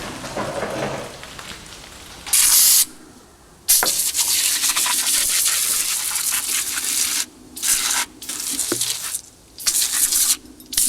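Aerosol can of foaming engine degreaser spraying in hissing bursts: a short one, then a long one of about three seconds, then several short squirts.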